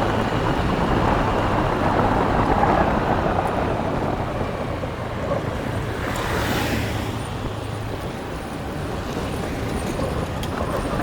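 Motorbike engine running steadily while riding, mixed with wind and road noise, with a brief brighter hiss about six seconds in.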